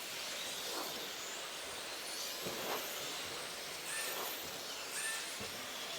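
Radio-controlled racing trucks running around the track: a steady rush of small motors and tyres, with brief high motor whines gliding past about four and five seconds in.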